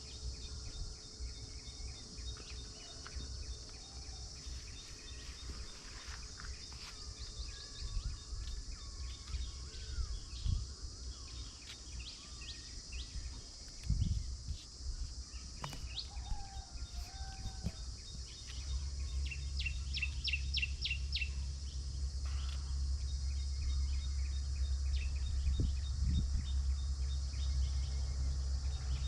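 Outdoor ambience: a steady high insect drone with scattered bird chirps, including a quick trill about two-thirds through. A low rumble under it grows stronger from about two-thirds through.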